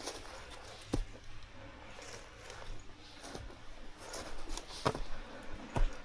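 Footsteps on the forest floor: irregular crunching steps about a second or so apart, with rustling between them and a heavier thud near the end.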